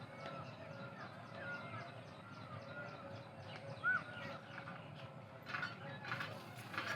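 Birds calling in open farmland: many short arching chirps over a fast, regular high ticking call, with a couple of brief rustling noises near the end.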